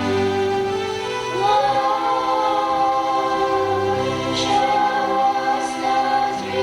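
A group of voices singing together with music, holding long notes that change pitch about a second and a half in and again around four seconds.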